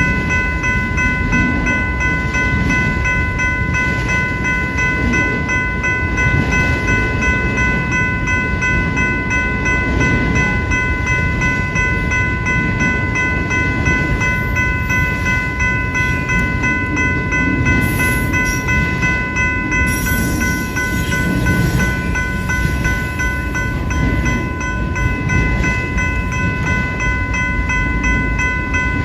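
Railroad grade-crossing bell ringing steadily while a train rumbles past over the crossing.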